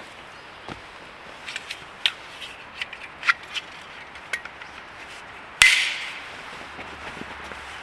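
Dry sticks and firewood cracking while being gathered: a run of small snaps and crunches, then one loud sharp crack about five and a half seconds in.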